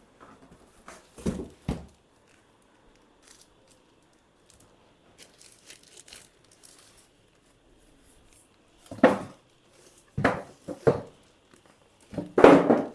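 Speaker packaging being handled: crinkling and tearing of the wrapping in a few short bursts, loudest near the end.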